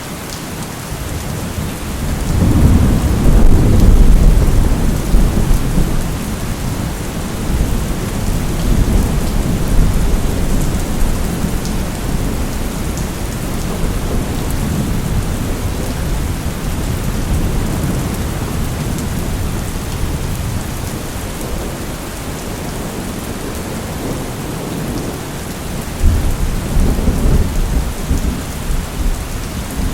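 Steady heavy rain with rolling thunder: a long low rumble swells a couple of seconds in and fades after a few seconds, and a sharper crack and rumble comes near the end.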